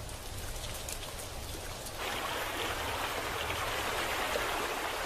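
Rushing water of a rain-swollen seasonal stream: a steady noise that turns abruptly louder and brighter about two seconds in.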